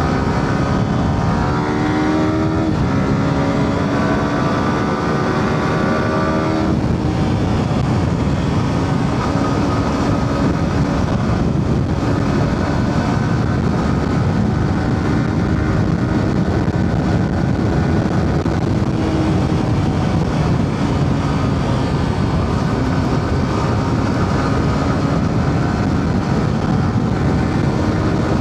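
Yamaha R15's single-cylinder engine while riding, rising in pitch as it accelerates for the first several seconds, then dropping sharply and running steadier, over a steady rush of wind and road noise.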